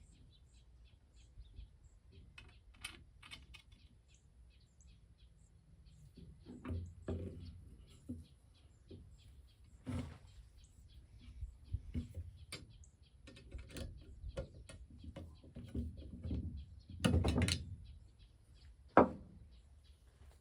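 Scattered knocks and clunks of hands-on work, with a longer rattling burst shortly before a single sharp knock near the end, the loudest sound. Birds chirp faintly in the first few seconds.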